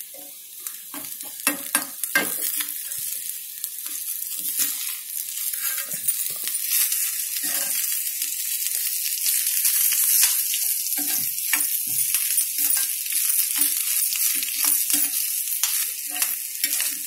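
Grated coconut, cashews, red chillies and fresh curry leaves sizzling as they fry in a black kadai. A steel ladle stirs them with repeated scrapes and taps against the pan. The sizzling grows louder over the first few seconds.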